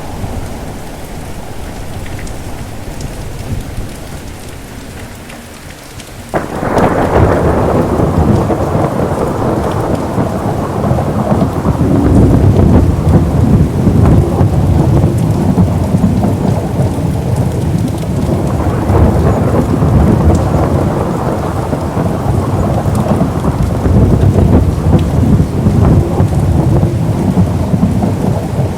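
Steady rain falling, then a sudden thunderclap about six seconds in that rolls on as loud, swelling thunder over the rain for the rest.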